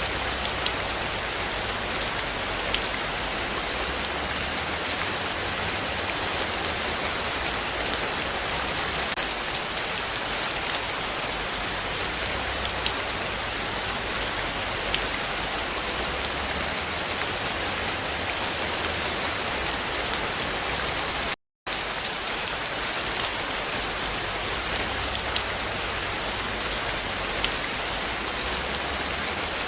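Heavy rain falling steadily, a dense even hiss full of fine drop ticks on surfaces. The sound cuts out completely for a split second about two-thirds of the way through.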